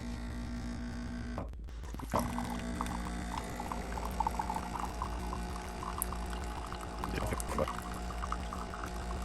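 Nespresso Vertuo Plus coffee machine running its first-use rinse cycle: a steady pump hum, with water trickling and splashing into the container below the spout from about two seconds in.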